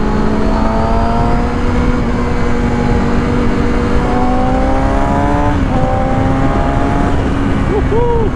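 Motorcycle engine running at a steady cruise, its note slowly rising, with a brief break about five and a half seconds in like a gear change, under heavy wind rumble on the helmet microphone. A short wavering tone near the end.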